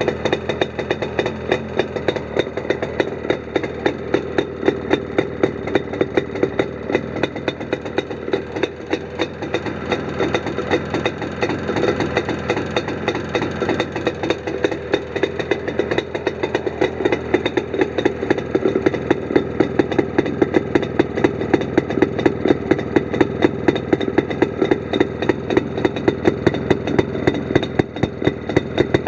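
Jawa 362 Californian motorcycle's two-stroke twin running at idle through a modified exhaust, with a steady, even pulsing beat that picks up a little for stretches in the middle.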